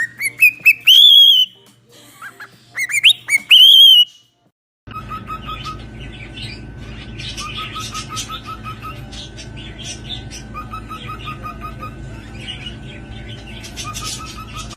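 A pet bird gives loud, rising whistled calls several times in the first four seconds. After a short break, another clip starts with a noisy background and quick runs of short chirps.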